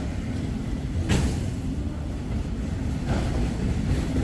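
Freight train cars rolling past on the rails, a steady low rumble with a couple of sharp clacks about two seconds apart.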